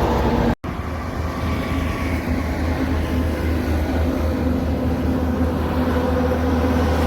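Heavy truck engine running with a steady low drone. The sound drops out completely for a moment about half a second in, then carries on unchanged.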